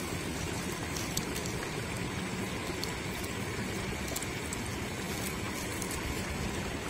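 Light rain falling on a paddy field: a steady hiss with scattered faint drop ticks.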